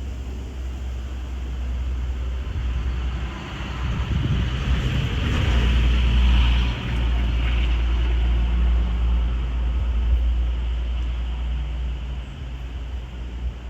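Aircraft passing overhead: a rushing engine noise that swells to a peak about six seconds in, then slowly fades. Under it runs a steady low rumble of wind on the microphone.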